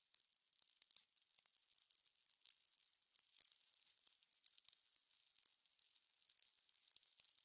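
Fire crackling: irregular sharp pops and snaps over a soft hiss.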